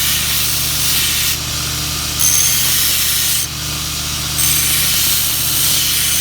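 Belt grinder running with a steady motor hum while the steel spine of a knife blank is ground round against the belt, a loud grinding hiss that eases off twice, about a second and a half in and again about three and a half seconds in, as the blade is lifted between passes.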